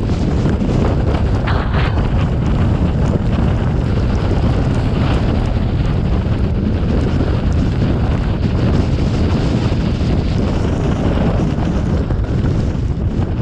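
Steady rumbling noise of a vehicle driving through a snowstorm, with wind on the microphone, and a few faint ticks.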